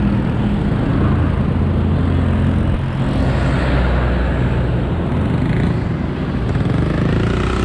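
Steady wind rumble on the microphone of a moving bicycle, with a low engine hum from road traffic underneath.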